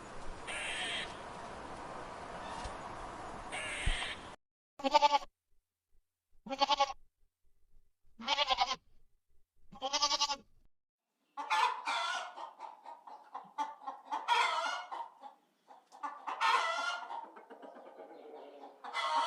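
Chickens calling: after a few seconds of noise, four short separate calls about a second and a half apart, then steady clucking and calling from a flock, from about eleven seconds in.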